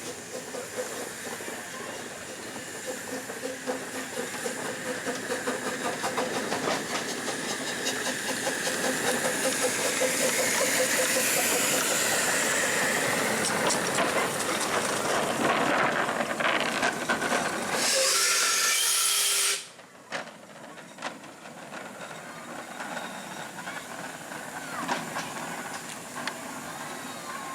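Miniature steam locomotive running, its steam hiss and working sounds growing louder over the first several seconds. A loud burst of steam hiss follows and then cuts off suddenly about two-thirds through, leaving a quieter hiss with a few clicks.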